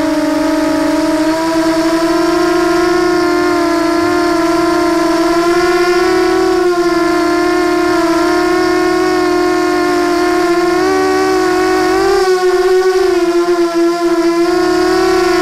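QAV250 quadcopter's electric motors and propellers whining in flight, one steady pitch that wavers slightly up and down throughout.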